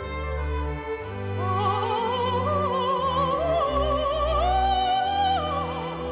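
Operatic-style solo singing with wide vibrato over orchestral accompaniment: the voice enters about a second in, climbs to a long held high note and falls away near the end.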